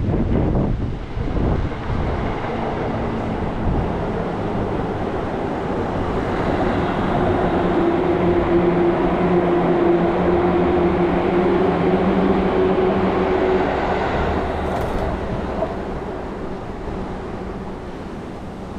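A large vehicle passing, its running noise and a steady hum swelling to loudest about halfway through and then fading. Wind gusts on the microphone at the start.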